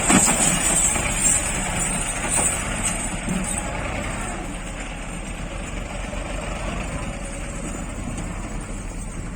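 Tractor engine running steadily, slowly growing quieter.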